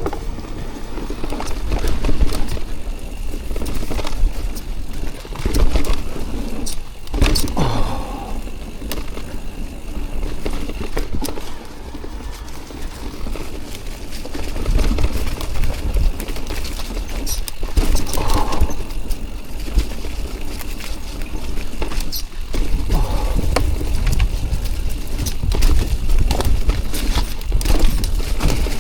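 Electric mountain bike riding over a rough trail covered in twigs and storm debris, the frame and chain rattling with a continual run of clicks and knocks. Wind buffets the helmet camera throughout as a heavy rumble.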